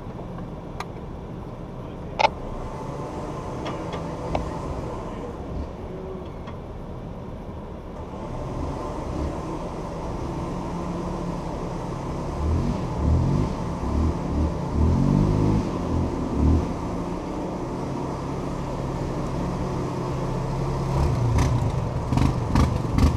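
Jeep engine idling steadily, with a sharp knock about two seconds in and a lighter one a couple of seconds later.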